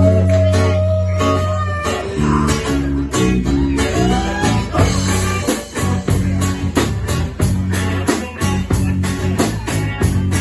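Instrumental rock music: guitar with sliding notes over held bass notes and a steady drum beat, with no singing.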